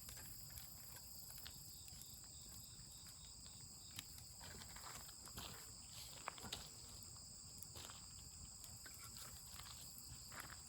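Faint, steady high-pitched chirring of crickets or similar insects, with scattered small clicks and crackles.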